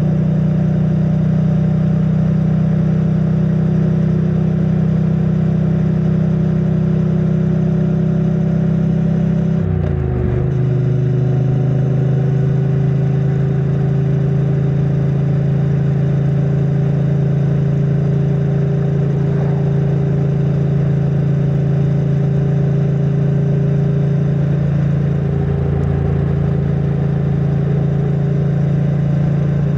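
2022 Triumph Bonneville T100's 900 cc parallel-twin engine running through its stock exhaust at steady cruising revs, heard from a microphone inside the rider's backpack. About ten seconds in the revs dip briefly and pick up again at a slightly lower pitch, as on an upshift, then hold steady.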